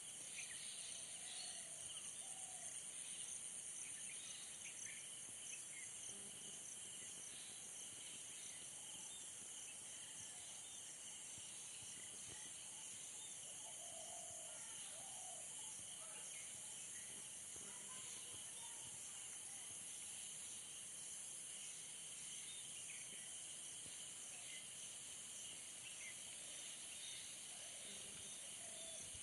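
Faint, steady night chorus of crickets and other insects: a continuous high trill with a second, lower band. A few short, low calls, likely from a bird, break in near the start, around the middle and near the end.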